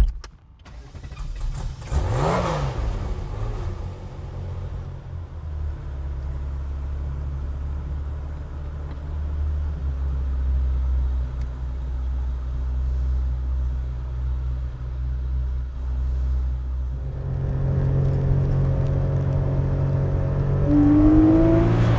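A car door shuts. About two seconds in, the Singer-rebuilt Porsche 911's 4.0-litre air-cooled flat-six starts with a quick rev and runs steadily at low revs. In the last few seconds it is heard driving on the road, its pitch rising as it accelerates.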